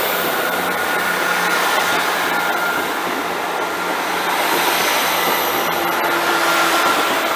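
Two coupled Class 158 diesel multiple units pulling away, with a loud, steady engine drone.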